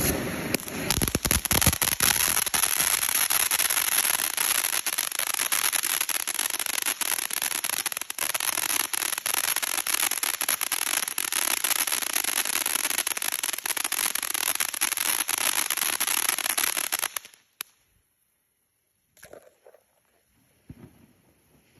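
Winda "Alien Abduction" firework fountain burning: a loud, steady hissing spray packed with rapid crackles, cutting out suddenly about seventeen seconds in.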